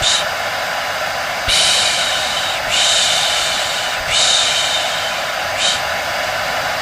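Hair dryer running steadily, with a voice shushing 'shhh' over it about every second and a half, as used to soothe a baby to sleep.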